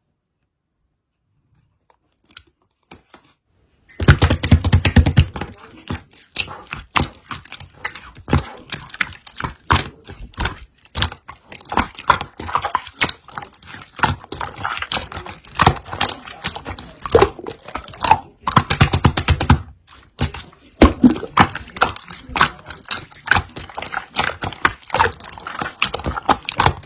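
Pearl slime being squished, pressed and poked by hand, making dense, irregular clicks, pops and crackles. The sounds start suddenly about four seconds in, after silence.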